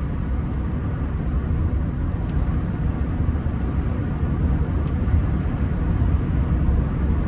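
Steady low rumble of road and engine noise inside the cabin of a Rolls-Royce Silver Spirit III driving along.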